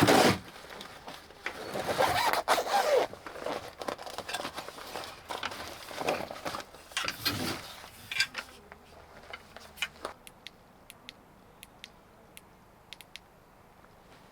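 Camping gear being handled: a sudden loud noise, then several seconds of scraping and rustling, then scattered light clicks.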